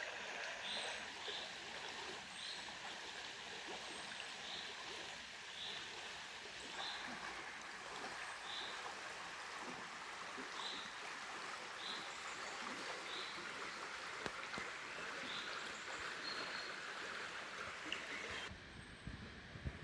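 A stream running, an even rushing of water, with short high chirps repeating roughly once a second. The water sound drops away suddenly near the end.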